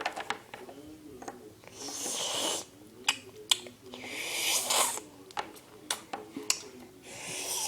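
Breathy, snort-like noises made by a person, three swells each about a second long. Between them come sharp light clicks and taps.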